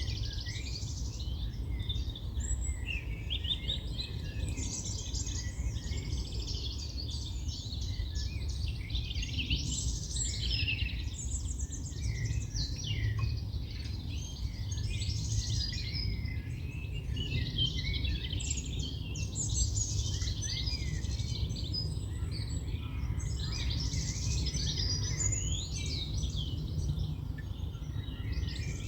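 Several songbirds singing and chirping continuously, busy overlapping high trills and calls, over a steady low rumble.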